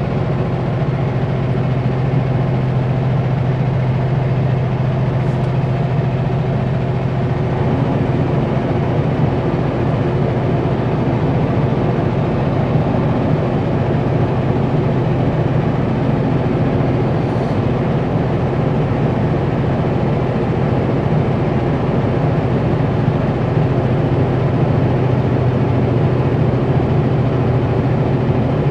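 Diesel engine of a Kenworth W900L semi pulling a Super B trailer up a steep grade at low speed, heard inside the cab as a steady low drone.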